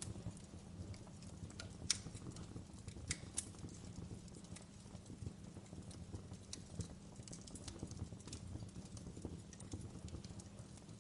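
Wood fire burning in a fireplace, crackling with irregular small pops, the sharpest about two seconds in, over a low steady rumble.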